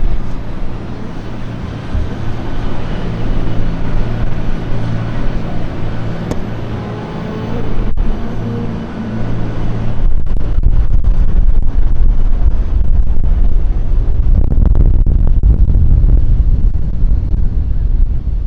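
Strong wind buffeting the microphone with low rumbling gusts that grow heavy about halfway through, over a steady low engine hum from a running vehicle during the first half.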